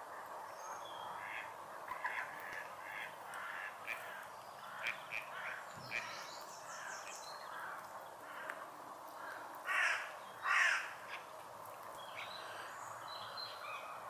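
Harsh bird calls: a scatter of short calls, then two louder, longer calls about ten seconds in, over a steady background hiss.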